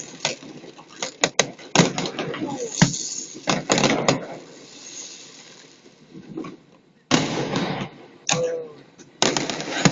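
Fireworks display: a rapid run of sharp bangs and crackles for about four seconds, easing off, then fresh loud bursts near the end.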